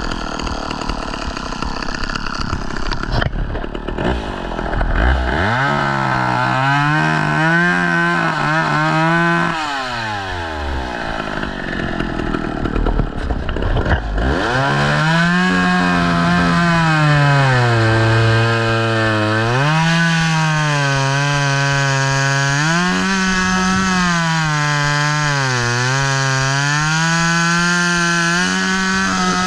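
Chainsaw engine throttled up about five seconds in, then running at high revs while cutting wood. Its pitch sags several times as the chain loads up in the cut, and rises again each time.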